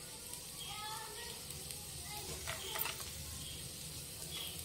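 Chopped almonds sizzling softly as they fry in ghee in a pan, with a few light clicks about two and a half seconds in.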